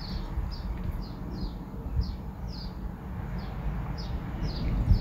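A small bird calling over and over in short, high, falling chirps, about two a second, over a steady low rumble.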